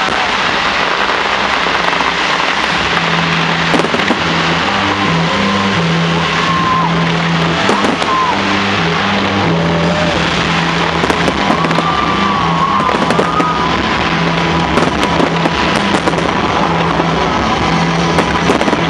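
Large fireworks display: a loud, dense, continuous crackle with many sharp pops and bangs. A few whistling glides ride above it, and a low steady hum runs underneath.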